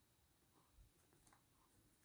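Near silence: room tone with a few faint light clicks and rustles of small hands-on handling.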